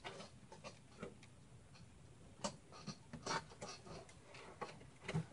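Faint scattered clicks and small knocks of plastic and metal parts being handled inside a mini-ITX computer case as a cable connector is worked into place, with a few sharper clicks near the middle.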